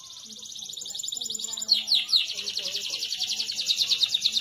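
Canary singing a fast rolling trill of high notes that grows louder, then breaking into a series of quick downward-swooping notes near the end.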